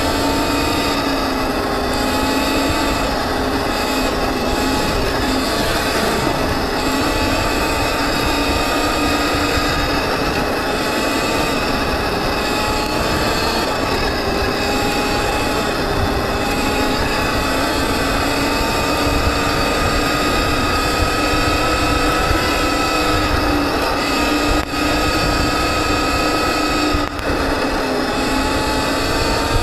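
79EMOTOS Viper S electric dirt bike's motor whining steadily as it is ridden over a rough trail, its pitch drifting a little with speed, over a low rumble from the ride. Two brief dips come near the end.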